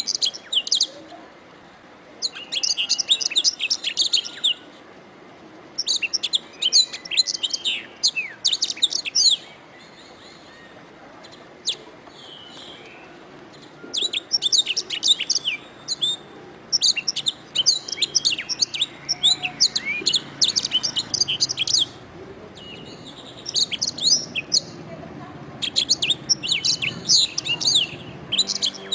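Domestic canary singing: bursts of rapid, high chirps and trills a few seconds long, separated by short pauses, with a longer lull near the middle broken by a few single notes.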